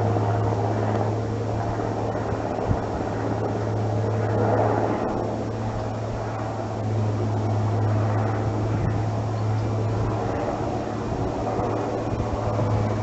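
Aircraft overhead: a steady, low engine drone with a constant hum beneath it.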